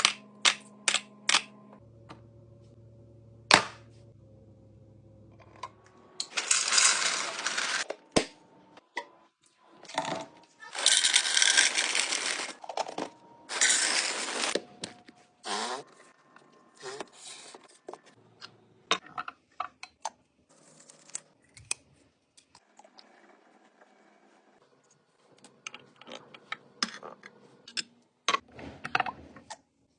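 Food containers and packaging being handled while a fridge is restocked: sharp clicks and taps of plastic lids and containers, with three longer bursts of rustling in the middle.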